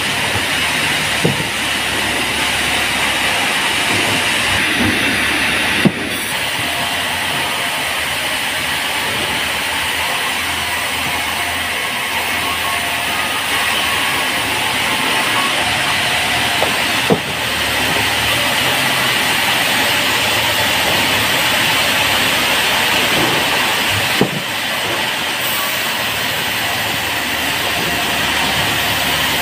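Band sawmill cutting a teak log, a steady hissing whir of the blade through the wood, with a few single sharp knocks.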